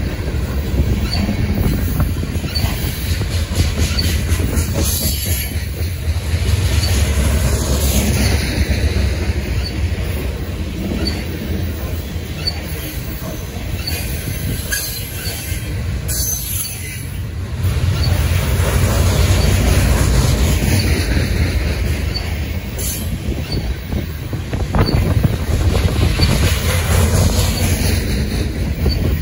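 Loaded coal hopper cars of a long freight train rolling past, their steel wheels on the rails making a loud, steady, low rumble that swells and eases as the cars go by.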